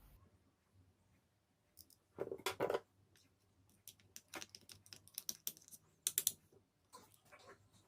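Scattered light clicks and taps from small parts being handled, with a louder short clatter a little over two seconds in and a run of quick clicks in the second half.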